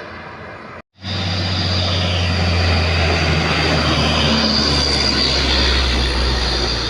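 Diesel truck engine working hard under load on a steep climb, loud and steady with a deep, even drone. The sound drops out briefly about a second in at an edit, then comes back louder.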